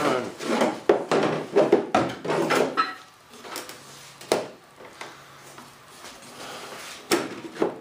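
A wooden bulkhead is handled and test-fitted into the jet's nose: wood rubbing and scraping for the first few seconds, then a few sharp knocks.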